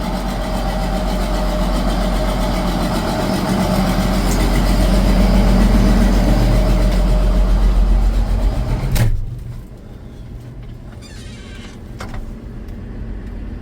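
Swather's diesel engine running steadily, building a little in loudness. About nine seconds in there is a sharp thump, and the engine is suddenly much quieter and muffled from then on.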